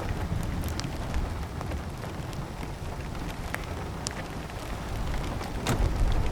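Rain falling during a thunderstorm, with scattered sharp drop hits over a steady hiss and a low rumble underneath that swells slightly near the end.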